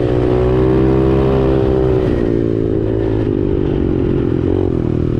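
X-Pro Storm 125cc pit bike's single-cylinder four-stroke engine running hard at high revs, flat out near top speed. The pitch holds steady, dips briefly about two seconds in, then wavers slightly.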